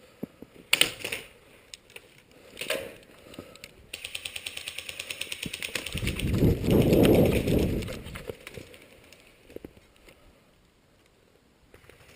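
Airsoft gun firing: a few single clicking shots, then a rapid full-auto burst of ticks lasting about four seconds, with a loud low rumble of wind or handling on the microphone in its second half.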